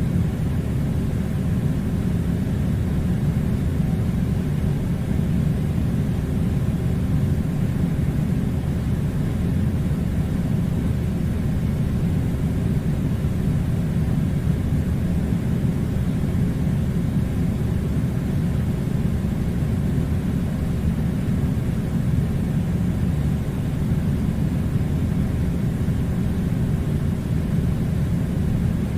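A steady, unbroken low rumbling noise that holds the same level throughout.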